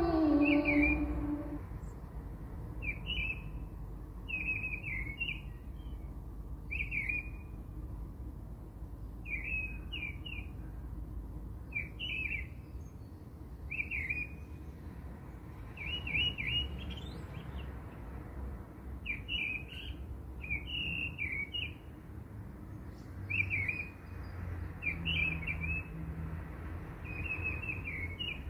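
Small birds chirping: short high chirps every second or two, over a low steady rumble.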